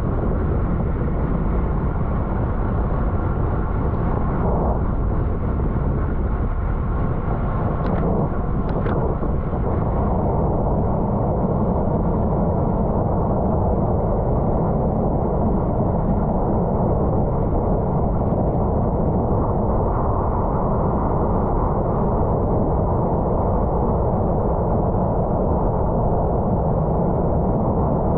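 Steady, loud wind noise buffeting a bike-mounted camera's microphone as the bicycle is ridden hard at racing speed, with a couple of brief clicks about eight and nine seconds in.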